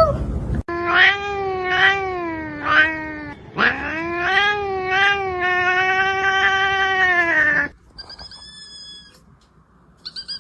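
A cat caterwauling in long, drawn-out yowls. The first call wavers with three upward swoops, and the second rises and holds steady before cutting off about three-quarters of the way in. Fainter, higher-pitched short calls follow near the end.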